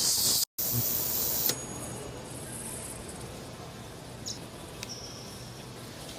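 A loud hiss from a jet, which breaks off for an instant and then stops about one and a half seconds in. After it come faint steady hiss and two small clicks.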